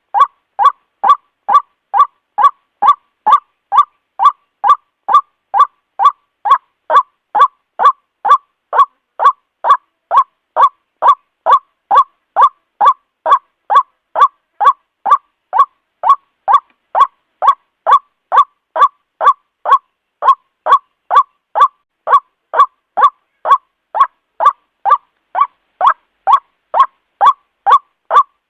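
White-breasted waterhen calling ruak-ruak over and over, about two notes a second in a steady, unbroken rhythm.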